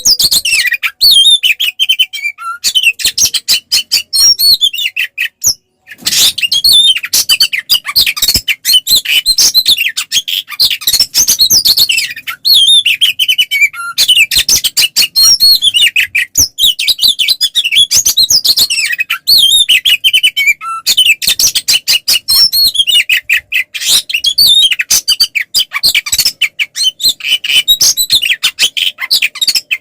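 Oriental magpie-robin (kacer) singing loudly and nonstop in its aggressive fighting-mode song: a rapid run of varied whistles, trills and chattering notes, with one brief pause about five and a half seconds in.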